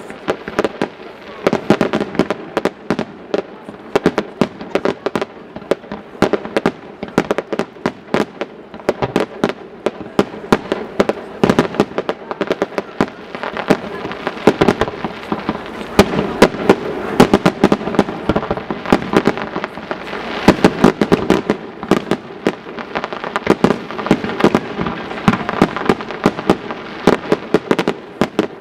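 Firework display: a rapid, unbroken barrage of aerial shell bursts, several sharp bangs a second with crackle between them.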